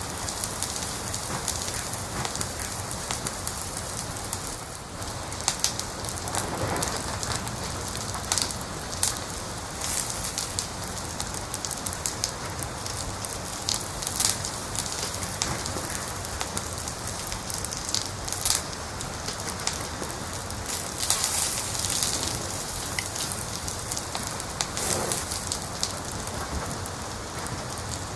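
Wood fire crackling: scattered sharp pops and snaps, irregular and some louder than others, over a steady hiss.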